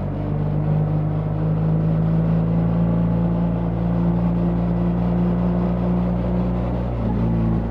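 BMW R 1300 GS boxer-twin engine running steadily under throttle, with a brief break in its note near the end.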